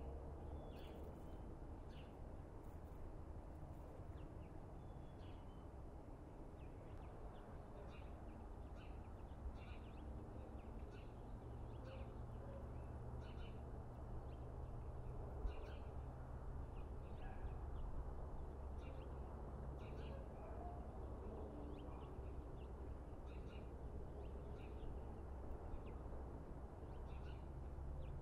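Small birds chirping in short, scattered calls over a steady low rumble and hum.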